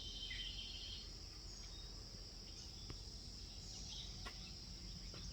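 Steady high-pitched insect chorus, with a short bird call near the start and a few faint ticks.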